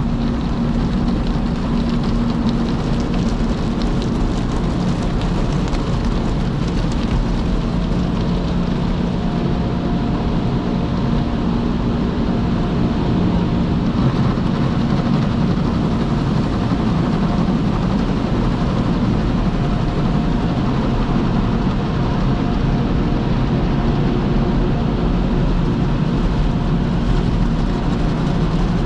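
Automatic car wash machinery running steadily: a constant wash of noise with a motor hum underneath.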